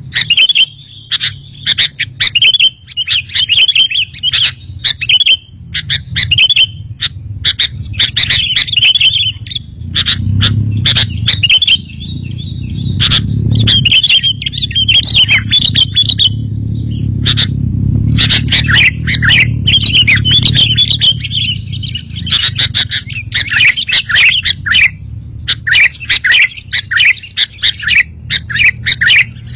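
Sooty-headed bulbuls (kutilang) chirping and calling in quick, busy bursts, with a low rumble underneath through the middle.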